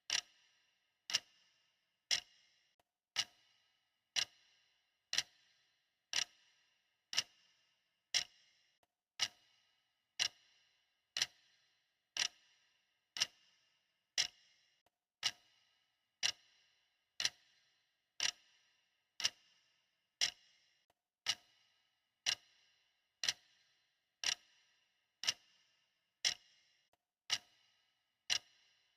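Clock ticking steadily, about one sharp, bright tick a second, each dying away quickly.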